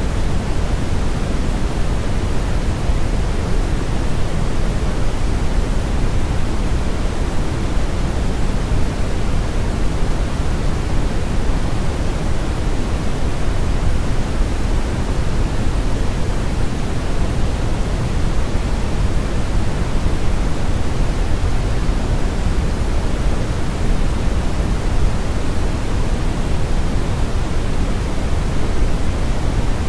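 Steady brown noise: an even, unchanging rush, deep and heavy in the bass with the highs rolled off, like a river current or strong wind.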